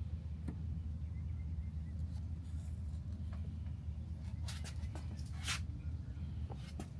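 Scattered light clicks and a brief rustle of handling over a steady low hum.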